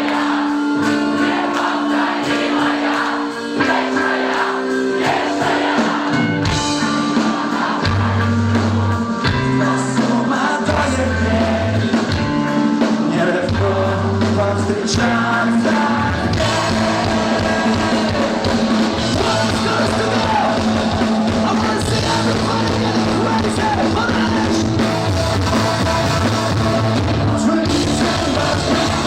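Rock band playing a song with a sung vocal. The first few seconds are lighter; about six seconds in, heavy bass and drums come in and the full band plays on.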